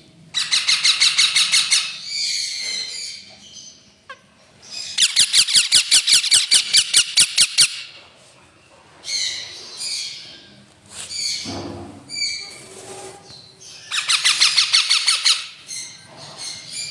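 Two small pet birds calling. Three long, harsh rattling squawks, each a fast run of about seven pulses a second lasting a second and a half to three seconds, with shorter chirps and calls between them.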